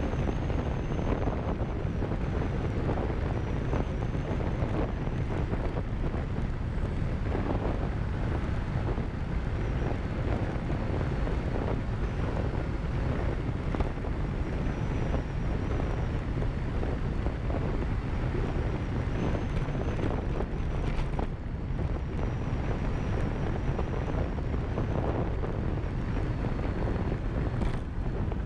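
Riding a motorcycle: steady wind rushing over the microphone, with the motorcycle's engine running beneath it.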